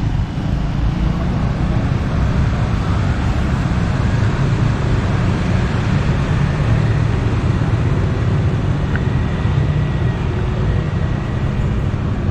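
Steady rumble of passing street traffic, with a faint thin high tone in the second half.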